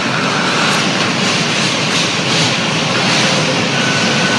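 New York City subway train running between stations, heard from inside the car: a steady, loud rushing noise of wheels and motors. A faint thin tone joins it near the end.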